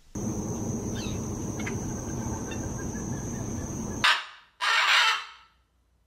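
Steady outdoor background with a thin high whine and a few faint bird chirps, which cuts off about four seconds in. Two loud, harsh bird squawks follow, a short one and then a longer one half a second later.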